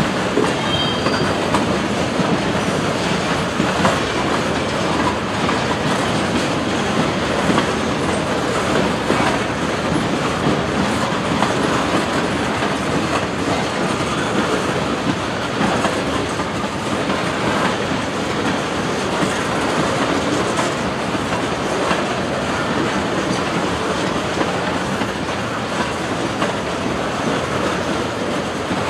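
Freight train cars rolling steadily past, their steel wheels clicking over the rail joints.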